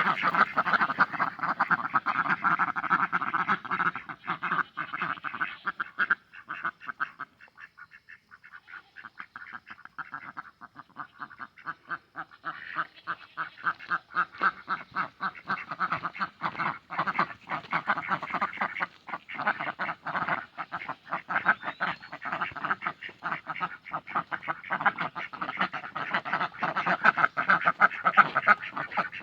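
A flock of ducks quacking continuously in rapid, overlapping calls. The quacking thins out for a few seconds about a quarter of the way in, then builds back up.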